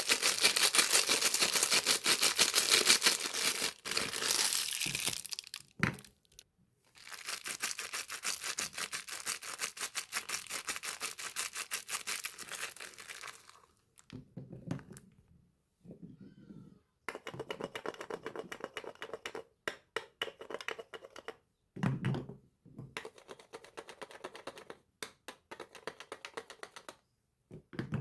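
Soap packaging crinkling and tearing as it is unwrapped by hand, in long stretches of dense crackle broken by short pauses.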